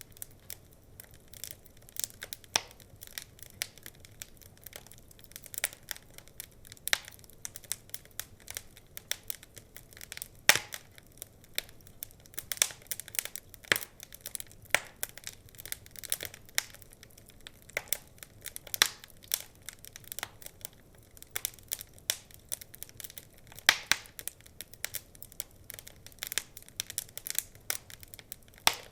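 Wood fire crackling: a dense, irregular run of sharp pops and snaps over a faint low hiss, with a few louder pops now and then.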